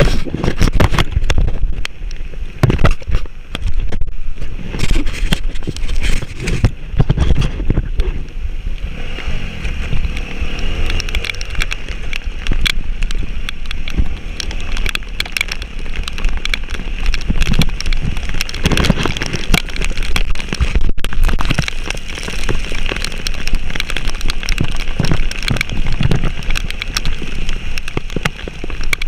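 A vehicle engine pulling up a rain-soaked mountain track, its revs rising and falling. Heavy rumble and repeated knocks sit over it.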